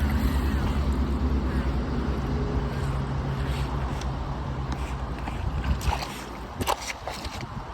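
Radio-controlled jet boat running in river rapids over the steady rush of white water. A low hum fades out about six seconds in, and a few sharp clicks follow near the end.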